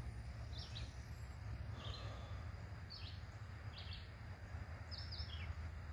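A bird repeating a short chirped call about once a second, over a low steady rumble.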